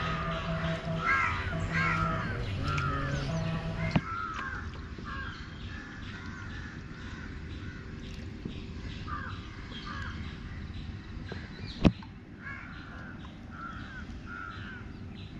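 Birds calling repeatedly, in short arched calls. The calls come thickest in the first few seconds and again near the end. A single sharp knock about twelve seconds in.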